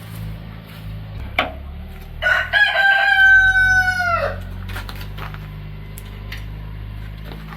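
A rooster crowing once: a single crow of about two seconds that holds its pitch and then drops off at the end.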